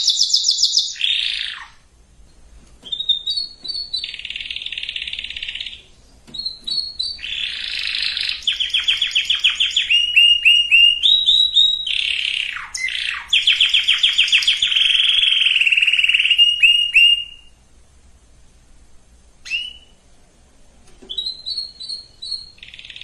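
Domestic canary singing: a run of phrases made of fast, evenly repeated notes and rolling trills, with short pauses between phrases and a longer pause of a few seconds near the end.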